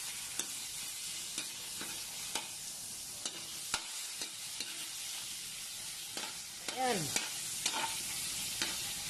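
Pieces of pork fat sizzling as they render in an aluminium wok, with a spatula scraping and tapping irregularly against the pan. About seven seconds in there is one short squeak that slides down in pitch.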